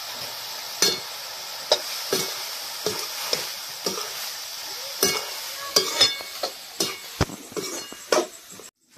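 Wild mushrooms (khukhdi) sizzling as they fry in oil in a kadhai, stirred with a spatula that scrapes and clinks against the pan. The strokes come about once a second at first, then more often in the second half, and the sound stops abruptly near the end.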